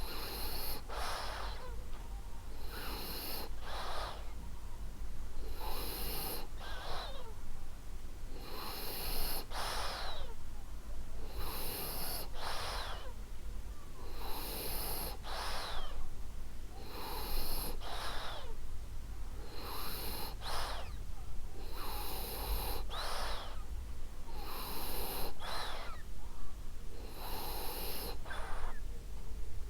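French bulldog snoring in its sleep, a noisy snoring breath repeating evenly about every two and a half seconds.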